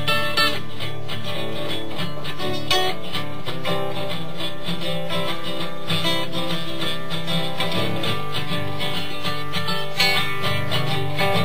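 Acoustic guitar strummed through basic chords, with chords ringing on between strokes.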